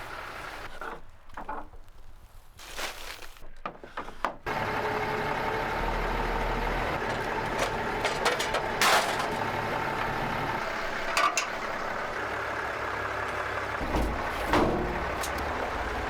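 Farm tractor's diesel engine running steadily while working with the loader bucket, with occasional sharp knocks and clatters. A quieter stretch of scattered knocks gives way to the engine sound about four seconds in.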